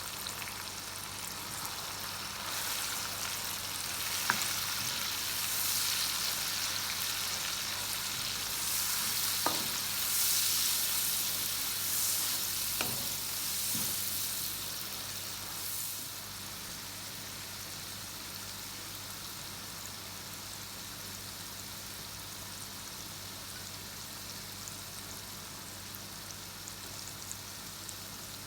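Food frying in hot oil in a pan, a steady sizzle that is louder for the first half or so and then settles, with a few sharp clicks along the way.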